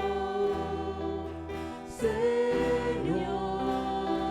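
Christian worship music: voices singing a Spanish hymn with instrumental accompaniment, held notes between sung lines, with a new phrase entering about two seconds in.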